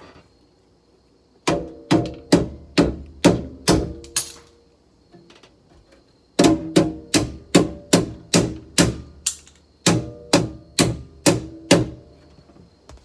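Hammer blows on metal in a car door, each one ringing briefly: about seven strikes, a pause of about two seconds, then about thirteen more, at roughly two to three a second.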